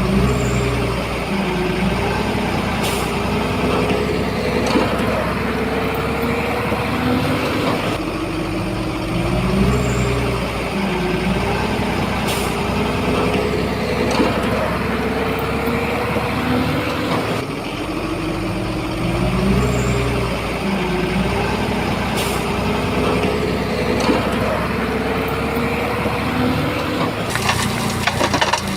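Heavy diesel engine of a Shantui bulldozer working under load, its pitch rising and falling in slow swells as it pushes, with occasional sharp clicks. Near the end a rapid run of crackling clatter sets in.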